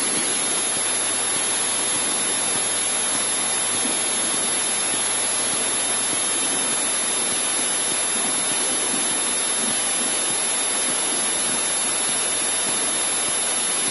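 Steady cockpit noise of a Cessna 152 with its engine running at low power, heard as an even hiss through the intercom.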